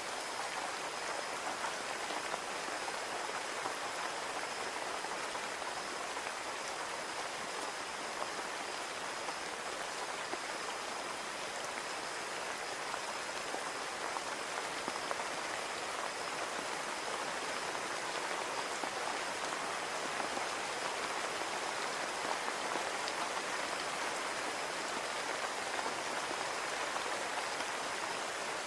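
Steady rain on a window, an even hiss sprinkled with small drop ticks, with a faint steady high tone underneath.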